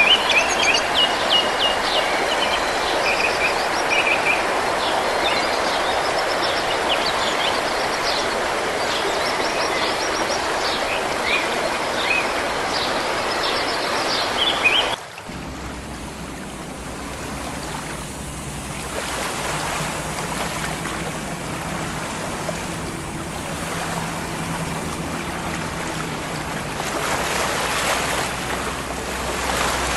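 Rushing floodwater, a dense steady rush of water noise with faint high chirps over it. About halfway through it cuts abruptly to quieter water and outdoor noise with a low steady hum underneath.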